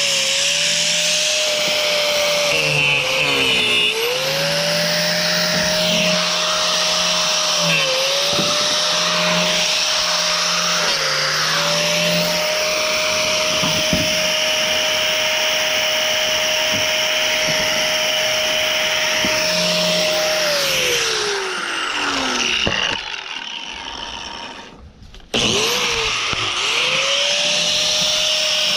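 Handheld electric power tool running at high speed with a steady whine that dips briefly several times as it bogs under load while cutting scrap. About 21 seconds in it is switched off and winds down; about 25 seconds in it spins back up.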